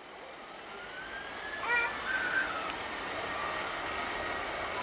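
Jet airliner engine noise: a steady high whine, with a tone rising slowly over the first two seconds. A brief call cuts in about two seconds in.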